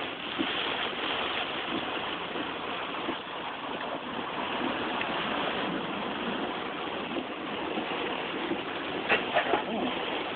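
Rain and wind against a vehicle during a thunderstorm: a steady hiss, with a few brief louder sounds about nine seconds in.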